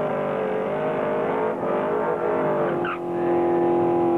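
Drag car's engine held at high revs during a burnout, rear tyres spinning. The pitch wavers as the throttle is worked, then holds steadier and louder for the last second before cutting off suddenly.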